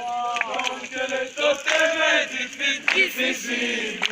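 A group of voices chanting together in chorus.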